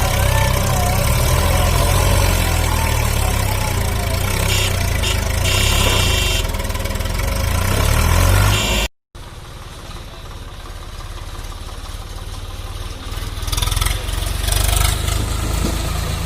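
A tractor's diesel engine running steadily under load, pulling a loaded trolley. About halfway through the sound cuts out for a moment and comes back quieter.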